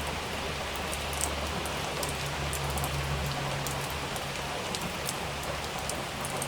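Steady heavy rain falling, with many individual drops ticking sharply over the hiss. A low rumble sits underneath for the first few seconds, then fades.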